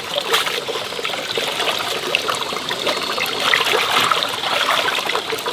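Rainwater trickling and splattering steadily, with many small drip and splash ticks.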